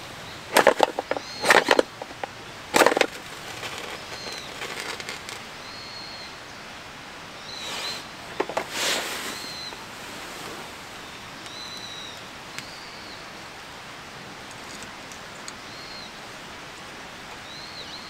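Short high chirping calls of a small bird, repeated every second or two, over a steady outdoor background. Loud rustling or scraping noises cut in a few times in the first three seconds and again around nine seconds.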